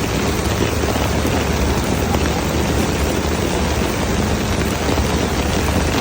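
Rain falling steadily, an even, unbroken hiss with a low rumble beneath it.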